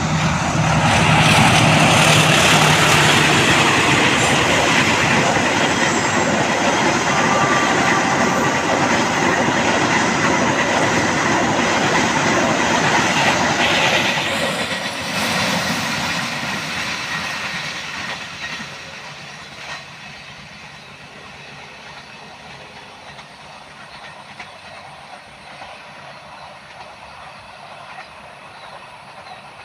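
Train passing on a curve: wheels clattering over the rail joints with a steady high squeal from the wheels on the curved track, loud for about fifteen seconds, then fading away over a few seconds as the last cars pass.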